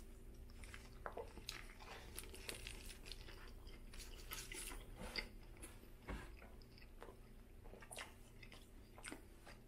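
A person biting into a Burger King Whopper and chewing it, with faint soft crunches and wet mouth clicks.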